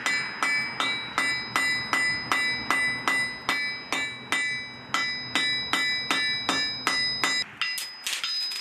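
Hand hammer striking steel on an anvil while forging a knife: steady blows about three a second, each with a bright metallic ring. Near the end the rhythm breaks into a few lighter, quicker taps.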